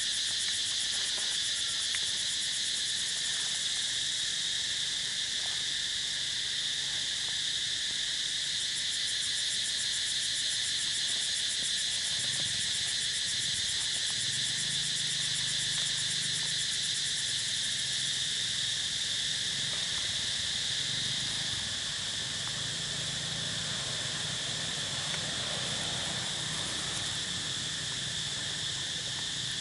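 Steady insect chorus, a continuous high buzz that dips slightly about two-thirds of the way through.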